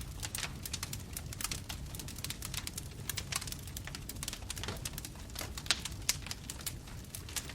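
Bonfire crackling: a steady low rumble of flames with many irregular sharp pops and snaps of burning wood, one louder pop a little before the end.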